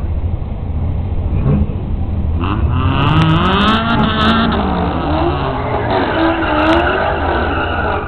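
Drag cars' engines revving up and down at the starting line, the pitch climbing and falling several times over a steady low rumble.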